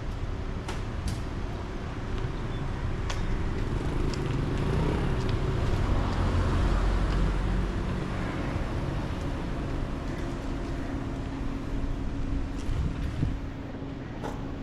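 Steady rumble of vehicle noise that swells and fades again in the middle, with a few light clicks.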